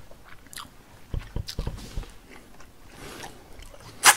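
Close-up chewing of sweet and sour pork: irregular wet crunches and mouth clicks, with one sharp smack about four seconds in.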